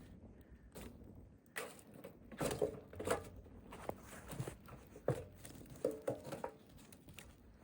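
A series of irregular knocks and clunks, some with a short hollow ring, at uneven intervals throughout.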